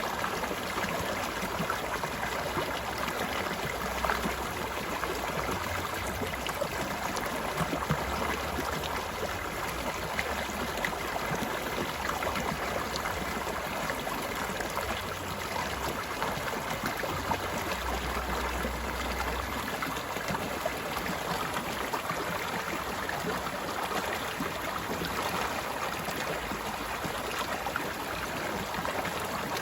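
Small stream flowing steadily, its water babbling and splashing without a break.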